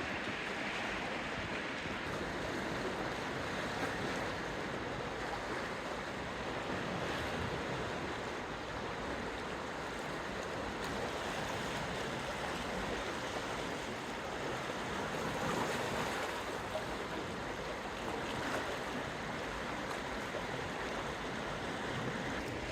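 Steady rushing noise of sea water and wind along the bay shore, even throughout with no distinct splashes or knocks.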